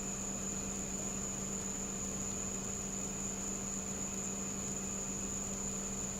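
Steady hum and hiss with a constant high-pitched whine, unchanging throughout.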